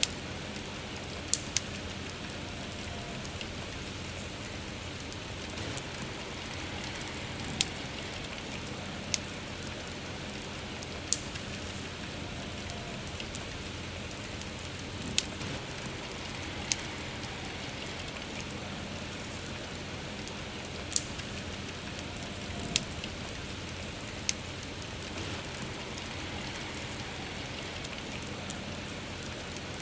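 Steady soft rainfall, with sharp crackling pops from a wood campfire every second or two.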